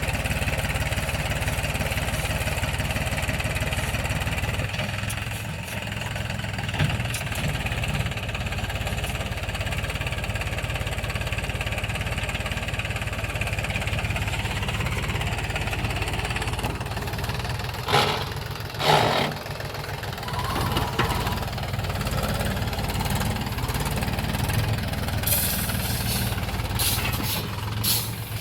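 Mahindra tractor's diesel engine running steadily with an even low chugging rhythm. Two brief loud bursts of noise come about two-thirds of the way in.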